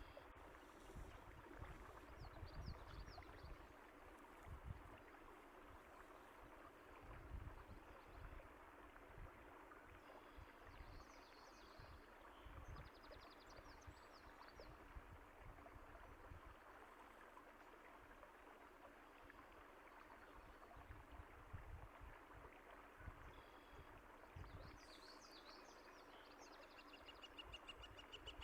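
Faint stream of running water flowing steadily, with irregular low thumps underneath. Short bird chirps come now and then, and a fast trilled bird song starts near the end.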